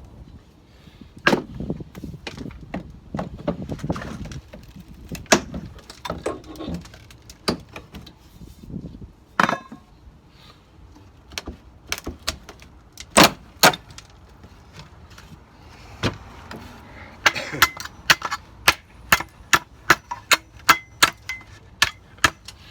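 Crowbar and wood-handled hammer working old wooden window trim: scattered irregular knocks and prying, then near the end a quick, even run of hammer blows, about two or three a second, with a slight metallic ring as nails are pounded down.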